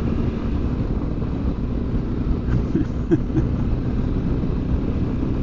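BMW R1200GS Adventure's flat-twin engine running steadily under way, with wind and road rumble.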